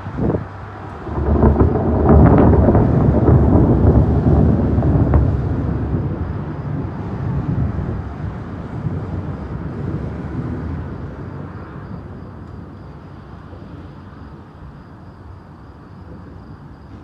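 Thunder: a short crack right at the start, then a loud crash about a second in with sharp cracks in it. It rolls on into a low rumble that slowly fades away over about ten seconds.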